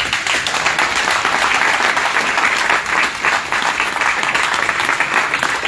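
A crowd applauding: sustained clapping from many people in a room.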